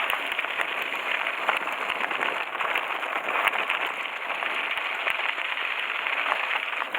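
Mountain-bike tyres rolling fast over loose gravel on a descent: a continuous crunching hiss with scattered clicks and rattles of stones.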